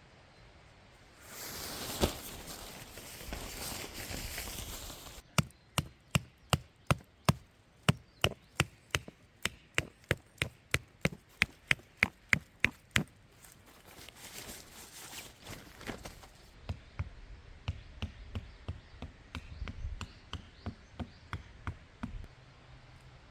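Wood being chopped with a small hatchet or knife: a run of about twenty sharp, quick strikes at nearly three a second, then a softer series of strikes at about two a second near the end. The strikes are preceded by a few seconds of rustling.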